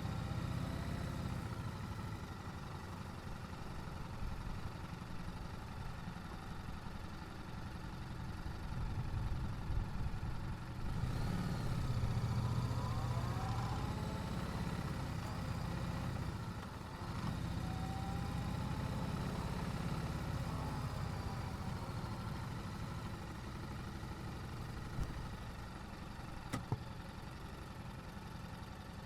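Yamaha YZF-R7's parallel-twin engine through its stock exhaust, running at low revs. It rises in pitch as it accelerates about eleven seconds in and again briefly a few seconds later. Two short clicks come near the end.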